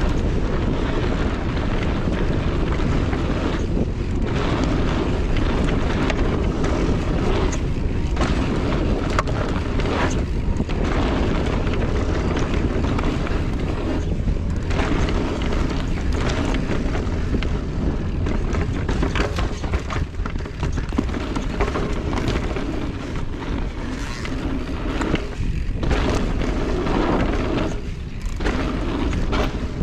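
Wind buffeting the microphone and trail rumble while riding an electric mountain bike over dirt, with scattered knocks and brief dips in the rush as the ride goes on.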